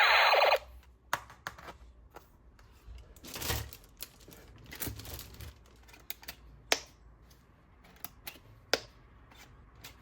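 A loud electronic toy sound effect with sweeping tones cuts off suddenly about half a second in. It is followed by scattered light clicks and two brief rustles, typical of plastic toys and packaging being handled.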